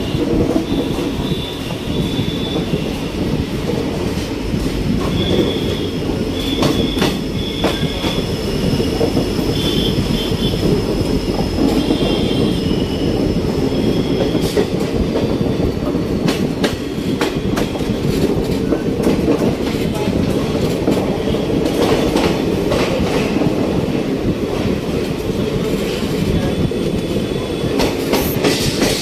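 ICF passenger coach of an express train running over the rails, heard from the open coach doorway: a steady wheel-and-track rumble with scattered clicks over rail joints and points. Short high wheel squeals come and go during the first half as the train rounds a curve through the station.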